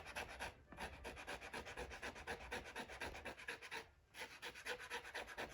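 Blade scraping the skin parchment of a Torah scroll in rapid short strokes, pausing briefly twice, to take off surface dirt and old material from the parchment.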